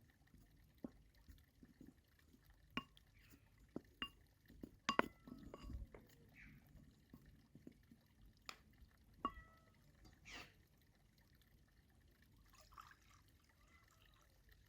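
Faint, scattered clinks of glass or dishware, a few ringing briefly, with a short pour of liquid.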